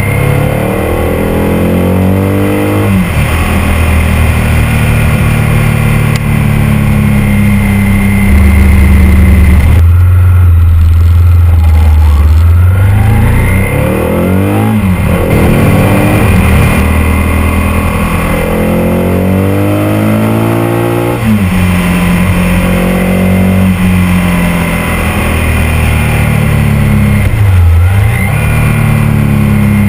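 Ducati 851's 90° V-twin engine pulling hard on the move, its pitch climbing through the revs and dropping back sharply at each gear change, several times over, with a deeper, slower dip near the end. Wind noise rushes over the microphone underneath.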